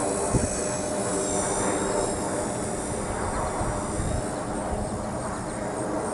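Blade mCP X micro RC helicopter in flight: a high motor and rotor whine that bends up and down in pitch as the throttle and collective change, with wind rumbling on the microphone. There is one short knock about half a second in.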